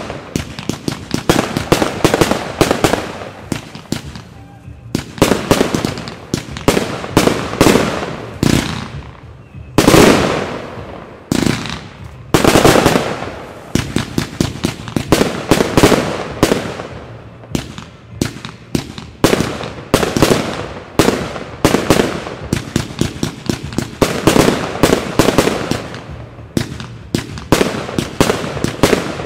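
Fireworks display with aerial shells and cakes bursting in rapid succession, several bangs a second without a pause. A few heavier booms stand out about a third of the way in.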